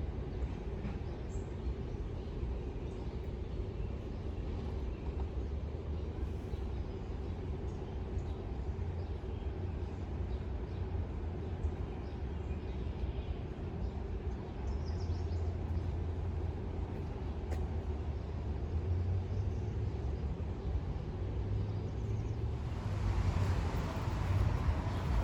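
Steady low rumble of city traffic, with a faint steady hum. Near the end a louder, brighter vehicle sound builds.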